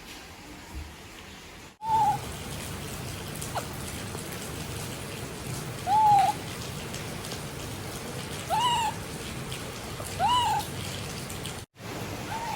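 Steady rain falling, with a baby monkey giving five short, clear calls that rise and fall in pitch, spaced a few seconds apart.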